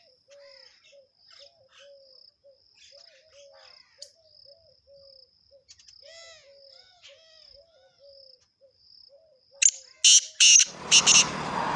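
Field ambience of insects chirping in a steady pulsing rhythm, with short low calls repeating about twice a second and a few scattered higher chirps. About ten seconds in come several loud sharp sounds, followed by a louder steady rushing noise.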